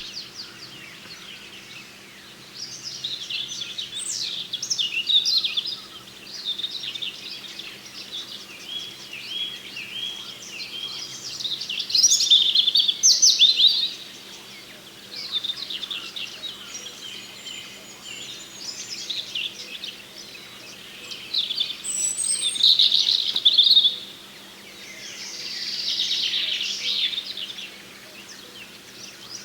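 Small songbirds chirping and calling in a busy, overlapping chorus, with louder flurries of calls about halfway through and again near the end, over a faint steady low hum.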